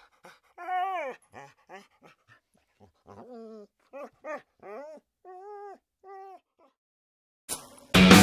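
Dog whimpering and yipping in a string of short, high, bending whines, one of them longer, about a dozen in all. Near the end comes a click, then loud rock music with electric guitar starts right at the close.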